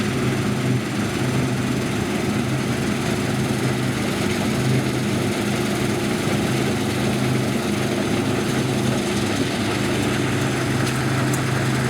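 Large farm diesel engine running steadily at constant speed, with a broad mechanical hum over it.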